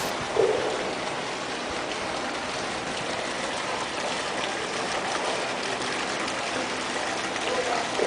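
Steady rushing noise of running water, with a short pitched call about half a second in.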